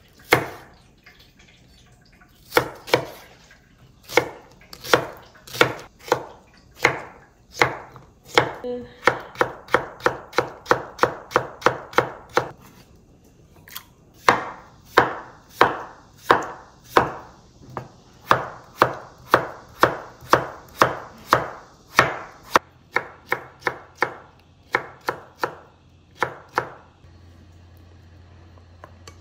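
Kitchen knife chopping stew ingredients on a cutting board: a long series of sharp chops with short pauses, including a quick run of rapid chops partway through, then stopping shortly before the end.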